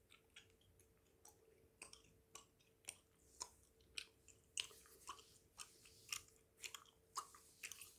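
Close-miked mouth sounds of bubblegum being chewed: soft wet clicks and smacks about two a second, quiet at first and growing louder and more frequent toward the end.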